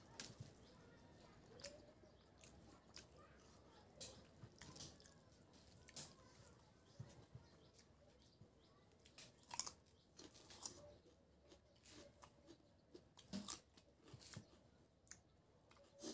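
Faint close-up eating sounds: chewing, lip smacks and crunchy bites of raw cucumber between mouthfuls of rice and pork curry eaten by hand. The clicks come in scattered clusters, loudest about ten seconds in and again around thirteen to fourteen seconds in.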